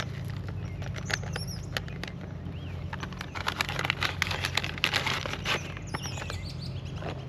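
Irregular clicks and crinkles of food and packaging being handled at a camp table, thickest in the middle, over a steady low hum.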